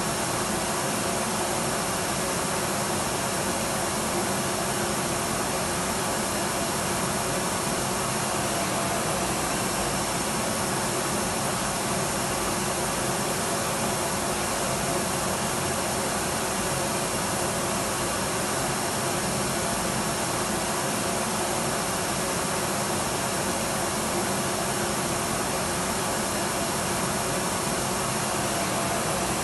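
Electric vacuum cleaner running steadily: a constant rushing hiss of air with a faint high whine, unchanging throughout.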